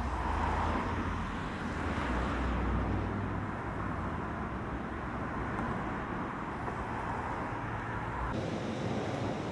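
Steady mechanical noise with a low rumble, changing abruptly about eight seconds in.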